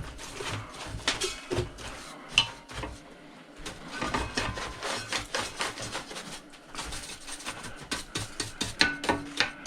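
Metal clinking and clattering as tools and parts of a chop saw are handled while it is being taken apart: an irregular run of knocks, clicks and scrapes.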